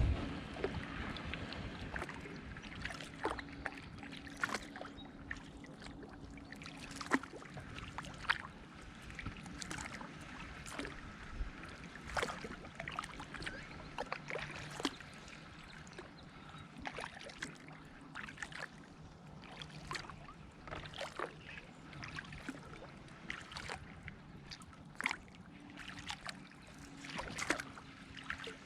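Kayak on calm water, with many small irregular drips, splashes and ticks from the paddle and water against the hull. A faint steady low hum runs underneath.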